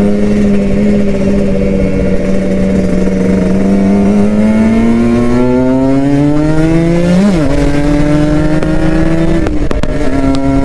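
Kawasaki Ninja RR 150's two-stroke single-cylinder engine under way. The revs hold steady, then climb for a few seconds and dip sharply at a gear change about seven seconds in. They climb again and drop back near the end.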